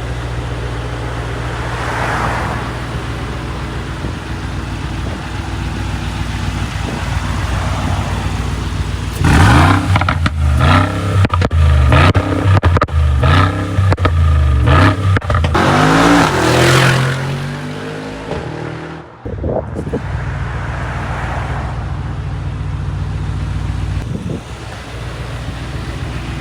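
2021 Mercedes-AMG G63's twin-turbo V8 with an Akrapovic exhaust idling, then revved in a quick series of blips about a third of the way in, with one longer rev to finish, before settling back to a steady idle.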